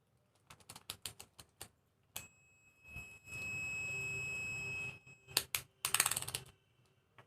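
A run of sharp clicks, then a steady high-pitched beep lasting nearly three seconds from the Mastech MAS830L multimeter's continuity buzzer, then another quick cluster of clicks.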